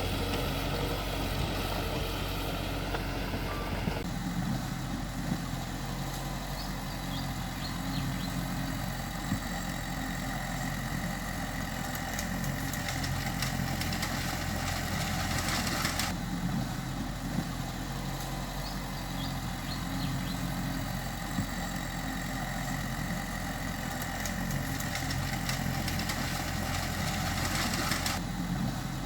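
Mitsubishi bulldozer's diesel engine running steadily. Its sound changes abruptly three times, at about 4, 16 and 28 seconds in.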